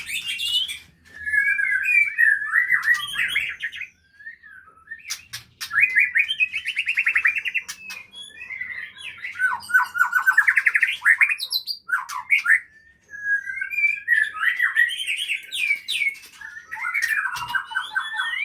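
White-rumped shama (murai batu) singing: a run of varied phrases with fast repeated notes, broken by short pauses about four and twelve seconds in.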